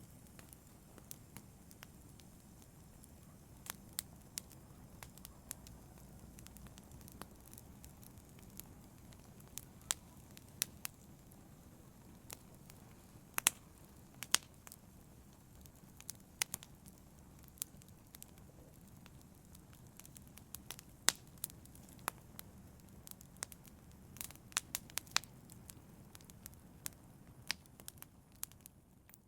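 Wood fire in a fireplace crackling, with irregular sharp pops over a steady low rumble of the flames. It fades out right at the end.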